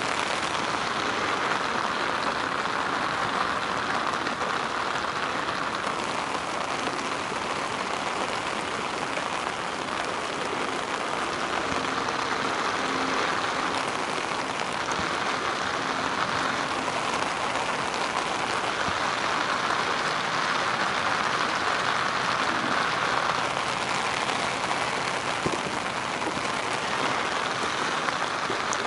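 Rain falling on a river's surface: a steady hiss of drops hitting the water.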